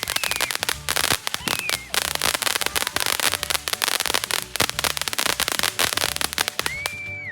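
Fireworks going off: a dense string of sharp crackling pops, many a second, with a few short whistling tones.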